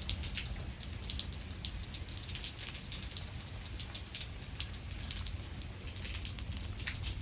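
Steady rain, with many separate drops striking a surface close by at irregular intervals, over a low steady rumble.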